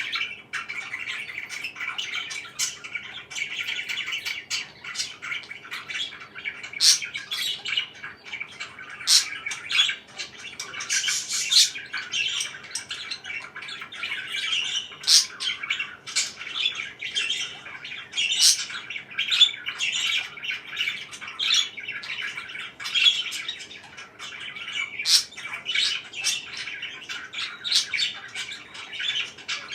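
Pet parakeets chattering continuously, with frequent sharp, loud chirps and squawks standing out above the chatter.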